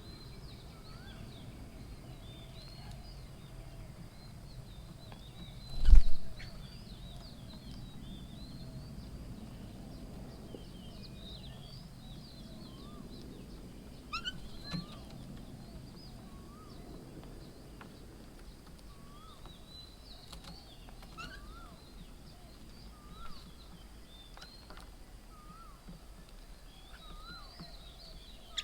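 Several birds chirping and calling in short rising notes, over a low steady background rumble, with one loud dull thump about six seconds in.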